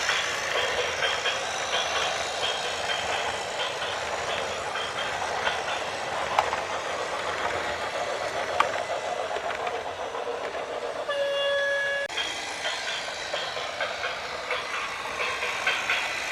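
Steady clattering, rumbling mechanical noise from a moving vehicle, with a single horn blast lasting about a second a little past the middle.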